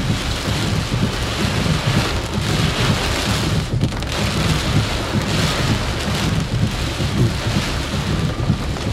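Heavy thunderstorm rain pouring steadily, with gusty wind buffeting the microphone and a low, uneven rumble underneath.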